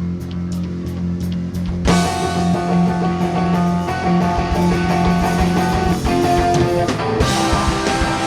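Live rock band playing an instrumental intro on electric guitar, bass and drums: a held low note with evenly spaced ticks, then the full band comes in loudly about two seconds in.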